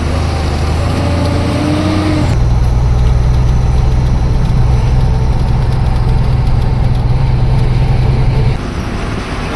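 A truck's diesel engine running as the truck drives. Its note changes about two seconds in, holds steady, then drops away sharply near the end, as when the throttle is eased off or a gear is changed.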